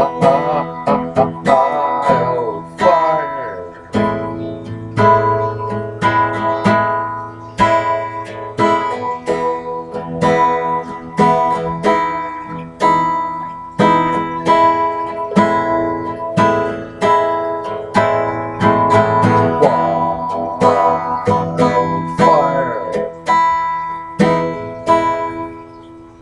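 Guitar music: strummed chords in a steady rhythm, fading out near the end.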